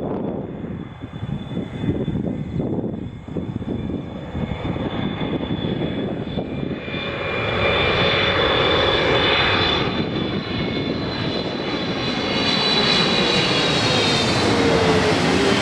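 Jet engines of a Boeing 777 freighter, its twin GE90 turbofans, during its landing: a rumble that grows louder about halfway through, with a high whine of several tones that starts to fall in pitch near the end.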